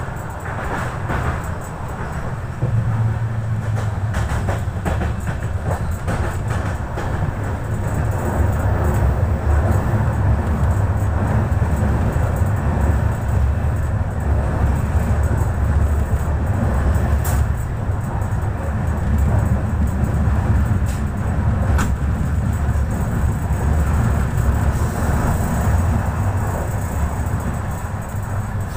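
Indian Railways passenger express running at speed, heard from aboard a coach: a steady rumble of wheels on the rails, growing louder a few seconds in, with a couple of sharp clicks later on.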